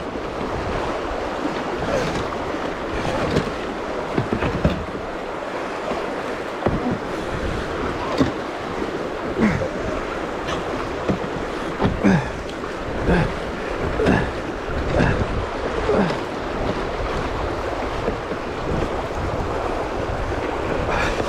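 River rapid rushing over rocks, with short splashes about once a second as a kayak runs through the whitewater.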